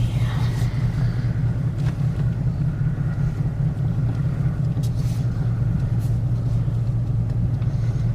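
Steady low rumble of a car's engine and road noise heard from inside the closed cabin while driving, with a few faint clicks.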